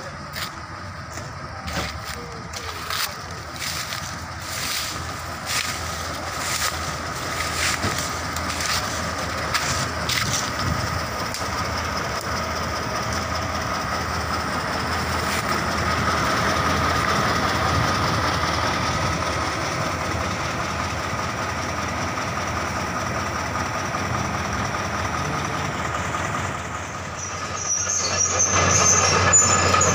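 Crawler excavator travelling on its tracks: the diesel engine runs steadily under a whine. Regular metallic clanks of the track links are heard for the first ten seconds or so, then it grows louder with a high squeal near the end.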